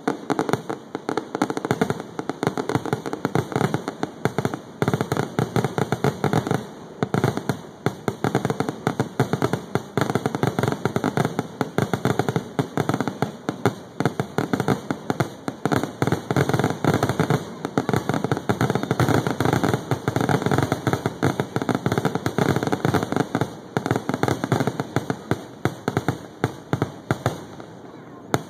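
Fireworks going off: a dense, unbroken rattle of sharp cracks and pops, many a second.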